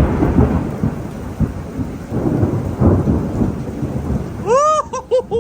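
Thunder from a storm right overhead, rumbling and cracking over steady rain. A few short, high-pitched calls come near the end.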